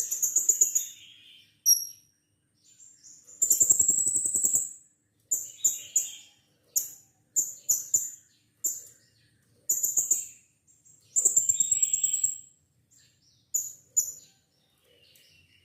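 Blue-crowned hanging parrot (serindit) giving shrill, very high-pitched calls in about a dozen short bursts. The longest are rapid buzzy trills about a second long.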